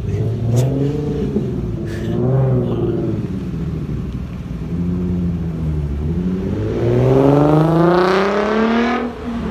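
A Nissan Z coupe's V6 engine revving and pulling away. The pitch rises and falls a few times, then climbs steadily in one long acceleration over the last few seconds before dropping off.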